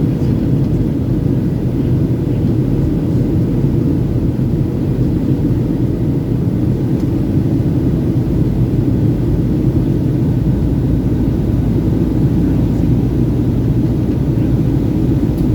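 Airliner cabin noise during takeoff and climb: a steady low rumble of the engines and rushing air, with no change in level.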